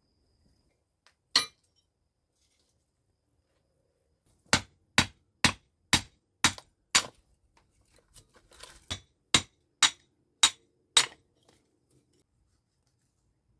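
Hammer blows with a bright metallic ring: a single strike, then a steady run of about ten strikes roughly two a second, with a short break partway through.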